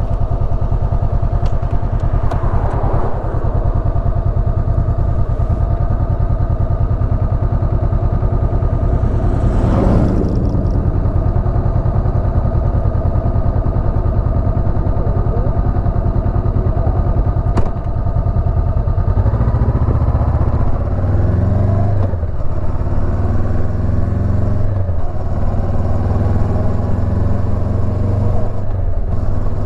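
Honda CB500X's parallel-twin engine running steadily at low revs, then from about two-thirds of the way in pulling away, revs rising and dropping back at each upshift, three times. A brief swell of noise passes about a third of the way in.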